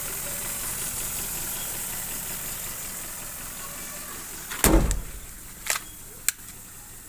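Overhauled Maruti Suzuki Swift petrol engine running steadily, then a loud thump about two-thirds of the way in, followed by two sharp clicks, after which the running sound is quieter.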